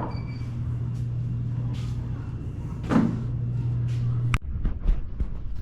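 An engine running steadily with a low hum, which cuts off abruptly a little over four seconds in, followed by a few light knocks.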